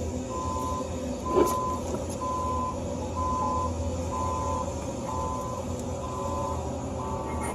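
Vehicle backup alarm beeping at a steady pace, a little under one beep a second, over a low steady engine hum. There is a single short knock about a second and a half in.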